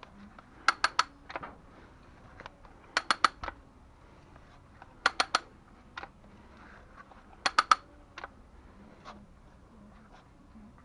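Sharp metallic clicks in quick groups of three, a group about every two seconds, with a few single clicks between.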